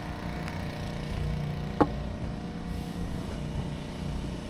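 An engine running steadily at idle, with an even hum, and a short sharp chirp a little under two seconds in.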